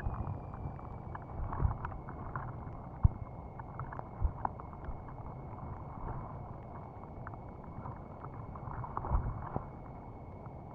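Wind rumbling on the microphone with scattered small clicks and knocks, under a faint steady high-pitched whine that dips slightly in pitch in the first couple of seconds and then holds.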